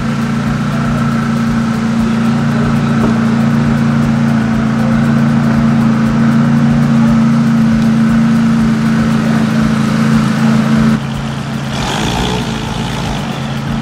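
McLaren 570S's twin-turbo V8 idling steadily. About eleven seconds in the sound changes abruptly, with a brief hiss soon after.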